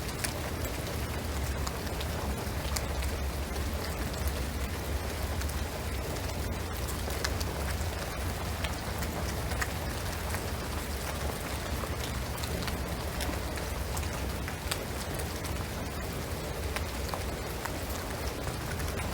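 Steady rain pattering on a shingled roof and pine trees, with many small drop ticks over an even hiss and a steady low rumble underneath.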